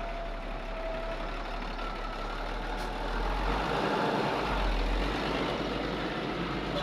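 Heavy diesel machinery engine running steadily, growing louder for a couple of seconds around the middle.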